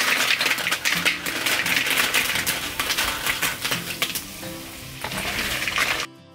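Curry paste frying in hot oil in a wok, sizzling and crackling hard as snails in their shells are tipped in. The sizzle eases after about four seconds and drops away sharply near the end.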